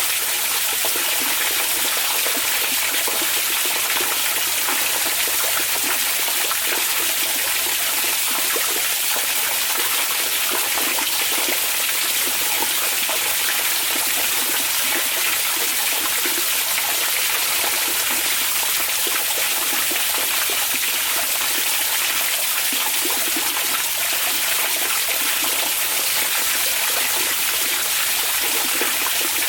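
Hot spring water running and splashing steadily into a bath, an even rushing hiss that does not change.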